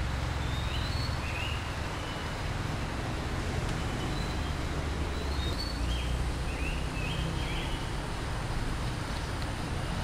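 Faint, short high bird calls come in scattered bunches, some rising, over a steady low rumble and hiss of background noise.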